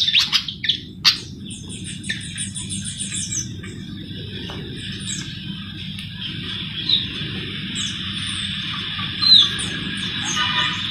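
Sikatan jawa flycatcher singing: a burst of sharp chirps at first, a fast high trill about two seconds in, then scattered short calls, over a steady high hiss and a low rumble.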